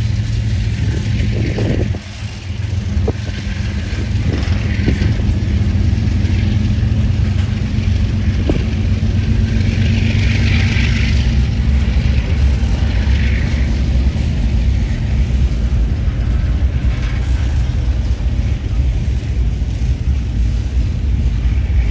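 Freight train cars rolling past: a steady low rumble of steel wheels on rail, with a few sharp clicks in the first seconds and recurring higher hissing or squealing swells from the wheels.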